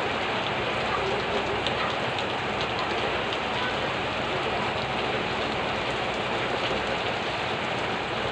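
Heavy rain falling steadily on tiled roofs: an even hiss flecked with faint ticks of individual drops.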